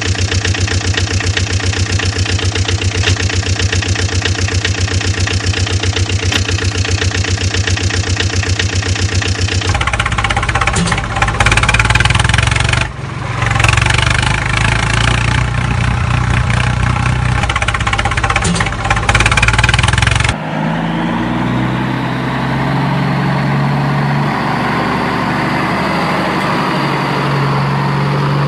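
Vehicle engines running in three segments cut one after another. First a fast, evenly pulsing engine, then a deeper, rougher one about ten seconds in, then a steadier engine whose pitch steps up and down for the last several seconds.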